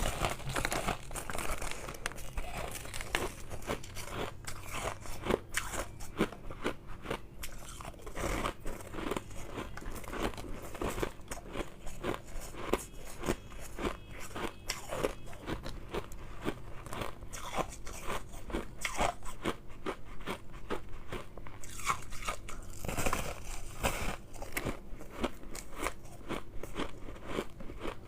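Close-miked biting and chewing of refrozen shave ice, a dense run of irregular crunches and crackles.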